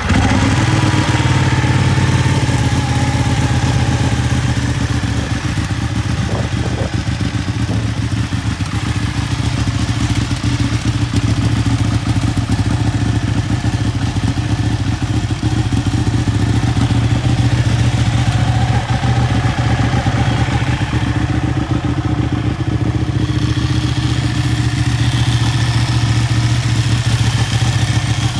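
Ducati Superbike V-twin engine catching just as it starts, then idling steadily.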